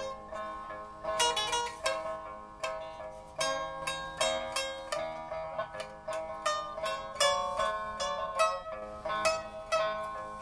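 Instrumental music on a plucked zither: runs and clusters of plucked notes, each ringing and then fading.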